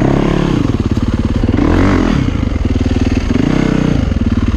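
Dirt bike engine running and being revved in about three short throttle blips. It is a hard-starting bike, which the riders suspect has a bad spark plug.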